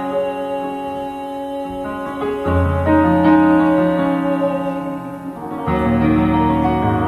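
Instrumental ending of a gospel song, piano-led accompaniment holding sustained chords that change about two and a half seconds in and again near six seconds.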